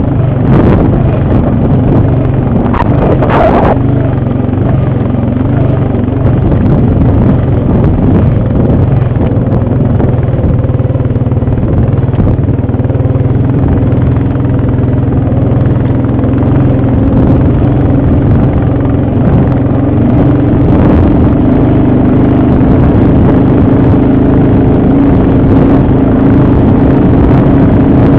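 ATV engine running steadily under way, with rough low rumble. A brief noisy burst comes about three seconds in, and the engine note grows stronger over the last few seconds.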